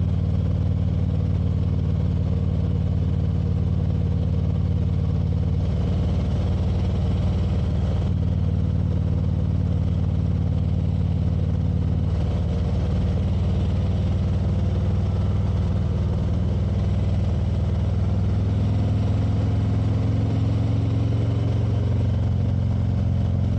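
Motorcycle engine running steadily while riding, heard from on the bike, its pitch shifting a few times with throttle and gear changes.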